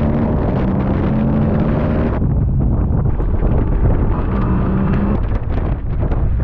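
Motorcycle engine running while being ridden, its pitch shifting about two seconds in and again near the end, with wind buffeting the microphone.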